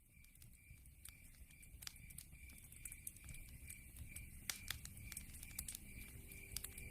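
Wood fire crackling in a fireplace: irregular sharp pops and snaps over a low rumble, fading in and growing louder.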